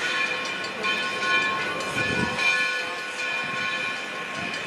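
Locomotive running as it reverses during switching moves, with a steady high whine throughout and a low thud about two seconds in.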